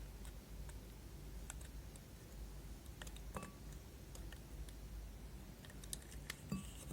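Faint scattered clicks and light taps from handling slime-making utensils and containers, two of them with a brief ring, about halfway and near the end.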